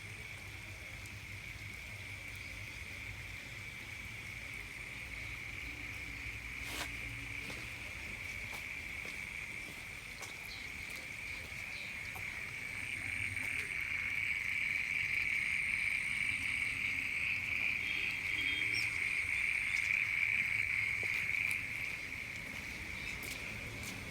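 Steady high-pitched insect chorus trilling without a break, swelling louder for several seconds past the middle, then easing back near the end. A single sharp click about seven seconds in.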